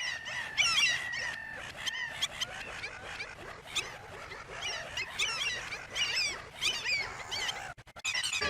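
A flock of black-headed gulls calling: many short, harsh, overlapping calls in quick succession. A steady high tone sounds under them for about the first two seconds, and the sound cuts out briefly near the end.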